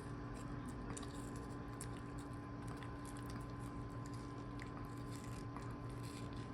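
A Pomeranian chewing watermelon, with scattered small wet clicks of biting over a steady hum.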